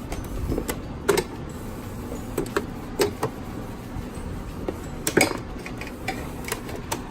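Irregular knocks, clicks and light clatter of food packages and plastic containers being picked up and set down, with the sharpest knocks about a second in, at three seconds and just after five seconds.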